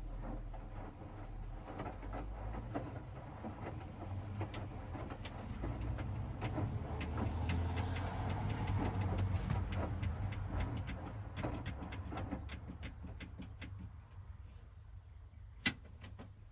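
Hoover DXOA washing machine turning its drum during the wash: a low motor hum that swells for several seconds and then dies away, with small clicks and knocks throughout. A single sharp click comes near the end.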